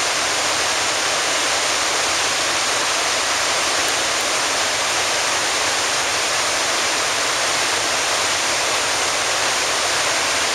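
Iguazu Falls waterfalls crashing down: a dense, steady rush of falling water.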